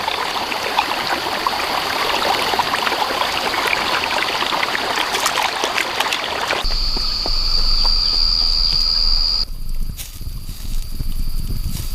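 Running water with a dense crackle for the first half or more. It cuts off suddenly to a steady high-pitched whine over a low rumble, and the sound changes abruptly again near the end.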